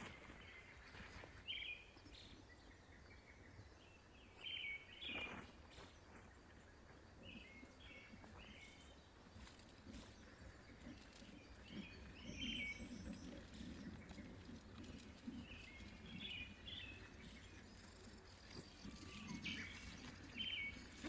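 Birds chirping faintly, short high calls repeating every second or two, over a low steady rumble.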